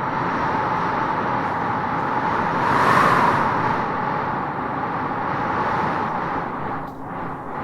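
Wind howling and gusting through tropical trees: a steady rush that swells to a peak about three seconds in and dips briefly near the end.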